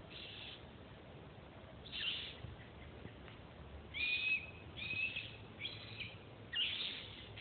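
Bird calls: six short calls of about half a second each, coming closer together after the first few seconds, over a faint low background hum.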